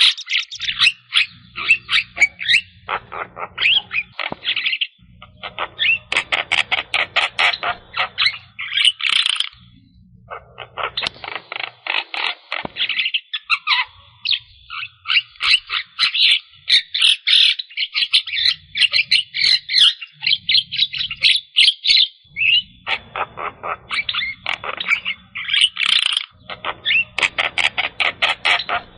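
Javan myna (jalak kebo) singing in full song: long bouts of fast, chattering repeated notes, broken by short pauses.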